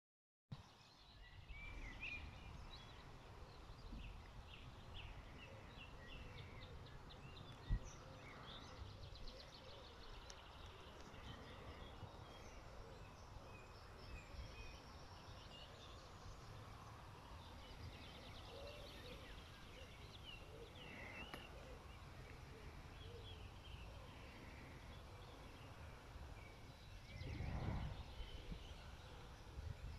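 Birds chirping and calling, many short calls scattered over a faint low rumbling background, with one sharp click about eight seconds in and a brief swell of low rumbling noise near the end.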